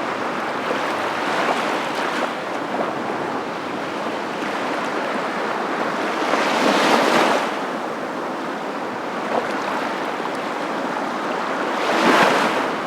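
Steady rushing water noise that swells louder twice: once about halfway through and again near the end.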